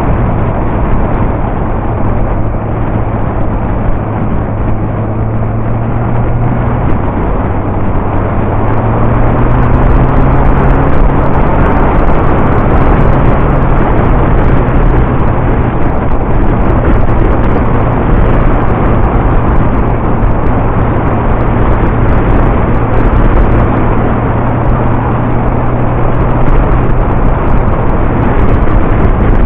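Yamaha R1 inline-four engine running under way, heard through heavy wind noise on the camera's microphone. Its pitch shifts and the sound gets louder about seven to ten seconds in, then holds steady.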